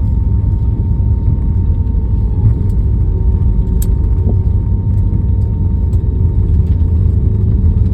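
Steady, loud low rumble of an Airbus A320-family airliner heard inside the cabin from a seat by the wing during landing, with a faint constant whine over it and a single click about four seconds in.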